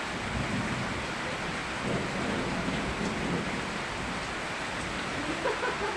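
Steady rain falling, heard as an even hiss, with low rumbling swells rising over it a few times.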